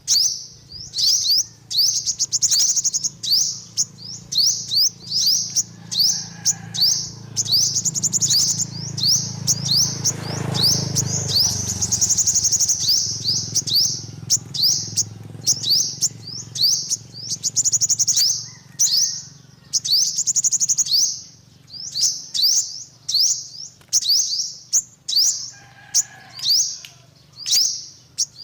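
Yellow-bellied sunbird calling: a rapid series of short, high, sharp chirps, a few a second, with longer trilled notes in the middle, over a low steady hum.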